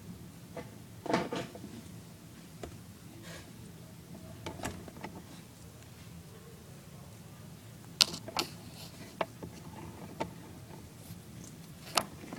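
Scattered sharp clicks and light knocks of plastic toy parts being handled and fitted while the toy ice cream truck is set up, with the two loudest clicks about eight seconds in and near the end.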